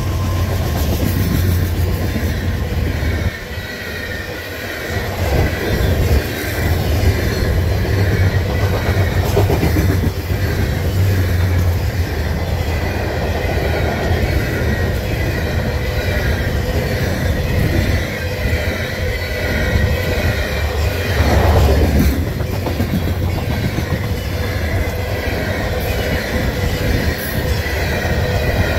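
Loaded grain hopper cars of a freight train rolling past close by: a steady heavy rumble and rattle of steel wheels on rail, with faint high ringing tones above it. It dips briefly a few seconds in and swells around two-thirds of the way through.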